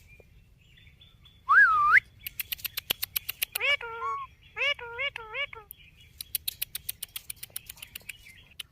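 Indian ringneck parrot vocalizing: a loud whistle that dips and then rises about a second and a half in, followed by runs of rapid clicks and a handful of short, pitched calls.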